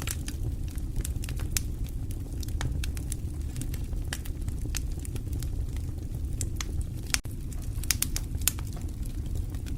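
Wood fire burning in a fireplace: a steady low rumble of the flames with irregular sharp crackles and pops from the burning logs, a few louder pops about seven to eight and a half seconds in.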